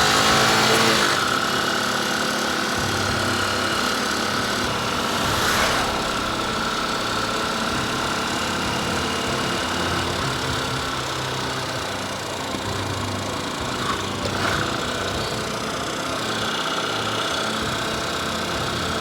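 Motorcycle engine running steadily with a rushing noise over it, with brief swells of louder rushing about five and fourteen seconds in.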